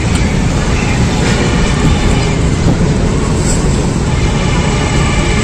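Pak Business Express passenger train passing close by: a loud, steady rumble of wheels running on the rails.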